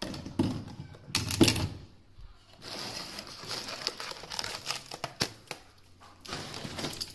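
Plastic bags and food packaging crinkling as items are pulled out of a fridge, with a few sharp knocks and clicks; the loudest rustle comes about a second and a half in.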